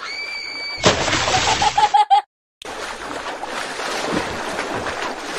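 Cartoon sound effects of splashing water over a steady wash of sea waves. It opens with a short steady beep, and a loud burst of splashing with a rapid warble cuts off suddenly about two seconds in.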